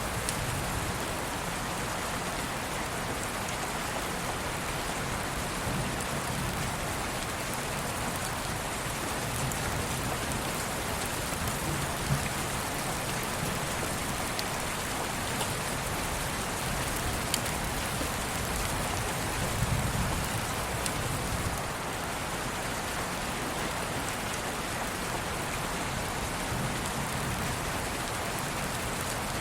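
Steady rain falling, an even hiss and patter, with a few soft low rumbles underneath at intervals.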